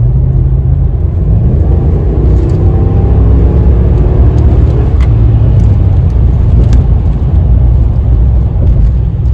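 Dodge Ram pickup's Hemi V8 under hard acceleration, its engine note climbing in pitch for a few seconds over a heavy low rumble, then running more steadily.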